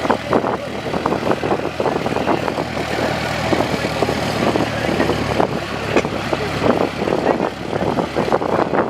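Small aircraft engine running, a steady low hum that fades away about five seconds in, with wind buffeting the microphone.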